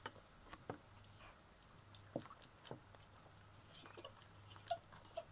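Faint eating sounds of a man chewing steak: a handful of short, soft smacks and clicks spread across a few seconds, over a low steady hum.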